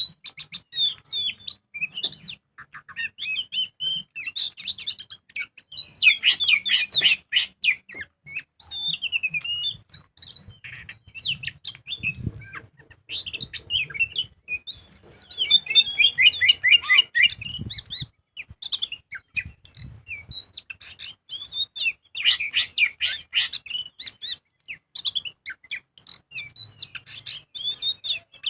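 Oriental magpie-robin singing a long, varied song of whistles and chatter, with bursts of fast repeated notes about 6, 16 and 23 seconds in.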